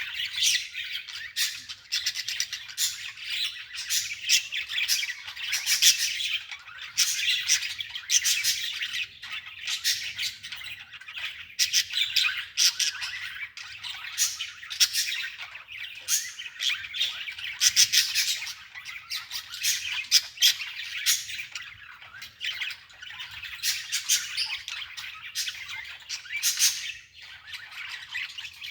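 Birds chirping and squawking in a dense, unbroken chatter of short, sharp calls.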